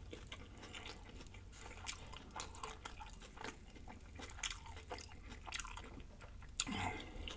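Close-miked chewing of a corned beef sandwich: irregular soft smacks and crunchy clicks of mouth and bread.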